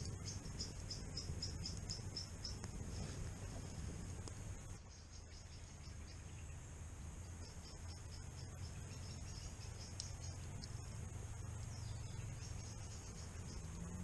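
A small bird calling in fast runs of high, thin chirps, several a second, pausing for a moment midway, over a low steady rumble.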